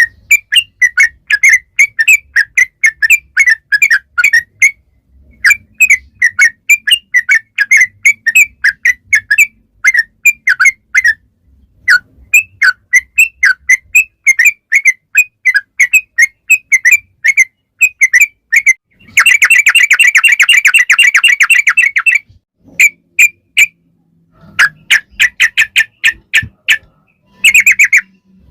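Yellow-vented bulbul (trucukan) calling in long rapid runs of short, sharp chirps, about three a second, broken by brief pauses. About two-thirds of the way through the chirps run together into a fast, dense trill for about three seconds.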